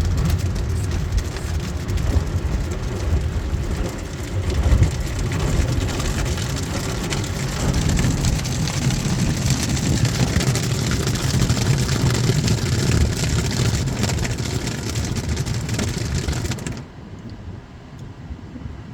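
A Ryko SoftGloss Maxx 5 automatic car wash spraying onto the car, heard from inside the car as a loud, dense rush of water like heavy rain on the body. The spray cuts off abruptly near the end, leaving a much quieter hum.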